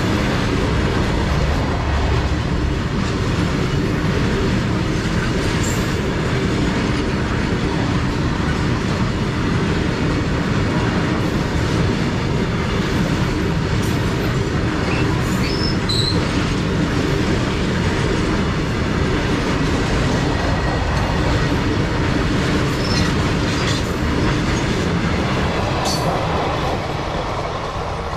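Long freight train of loaded open wagons rolling past close by, a steady rumble and clatter of wagon wheels on the rails. The noise eases near the end as the last wagon goes by.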